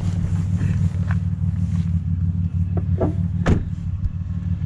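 2003 Chevrolet Impala engine idling, heard from inside the cabin as a steady low hum; the exhaust has just been repaired with a new pipe and no longer leaks, so it runs quietly. A couple of short knocks or clicks sound about three seconds in.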